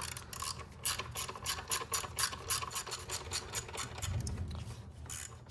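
Hand ratchet clicking rapidly and evenly, about five clicks a second, as an E8 Torx socket backs out the intake manifold studs; the clicking stops near the end.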